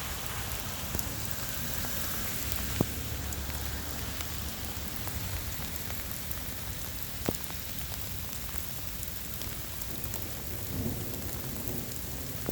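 Steady rain falling over a low rumble, with two sharp ticks about three and seven seconds in.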